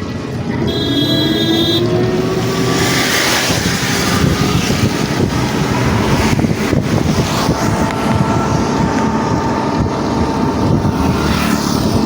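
Steady, loud rushing noise with wind buffeting the microphone.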